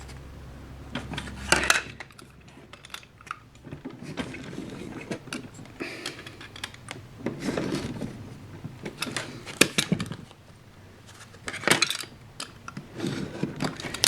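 A scored model-railway cobblestone sheet being flexed and eased apart along its knife line: irregular clicks, crackles and rustling as it is handled, with a few sharper snaps.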